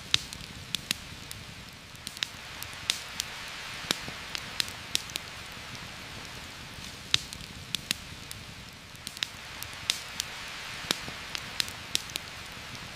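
Steady rain hiss with a campfire crackling over it: many sharp pops at irregular intervals.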